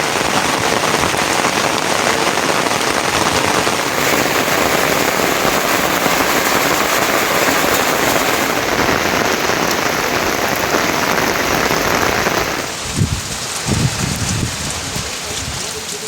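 Heavy rain falling steadily, a dense even hiss. About twelve seconds in it drops to a lighter, quieter patter with a few low thumps.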